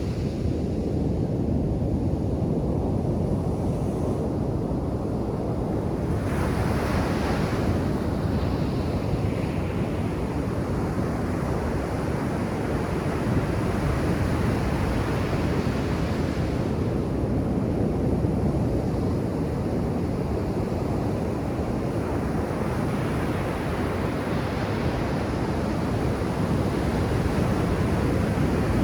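Ocean surf breaking on a beach: a steady low rumble of waves. A brighter wash of a breaking wave comes about six seconds in, and again from about two thirds of the way through.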